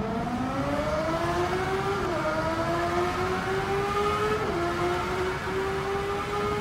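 A car engine accelerating through the gears. Its pitch climbs steadily and drops back at two gear changes, about two seconds in and again about four and a half seconds in.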